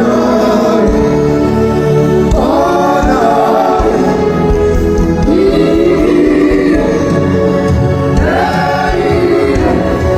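Gospel worship music: a choir singing long held phrases, with new phrases starting every few seconds.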